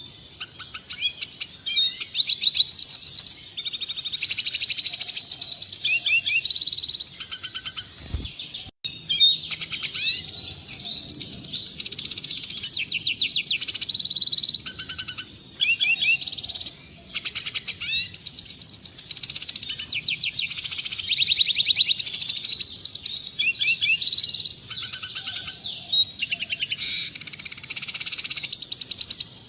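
Red siskin singing continuously: a long run of rapid, high-pitched twittering and trills, broken briefly about nine seconds in.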